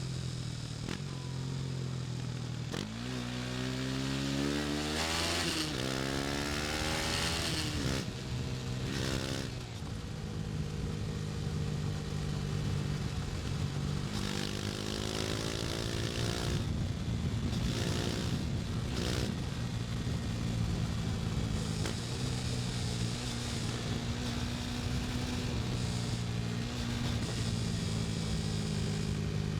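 KTM 250 Duke's single-cylinder engine accelerating hard, its pitch rising steeply from about three seconds in and again around fourteen seconds, each climb ending in a drop as it shifts gear. It then runs at a steady pitch while cruising.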